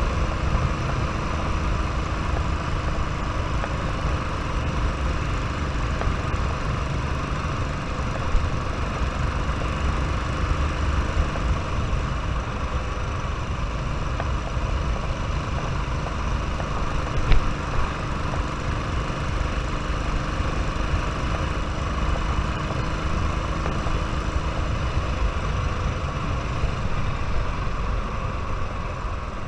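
Royal Enfield motorcycle engine running steadily, with one brief sharp click about 17 seconds in.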